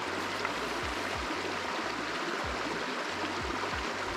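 Steady rush of flowing water from a small river.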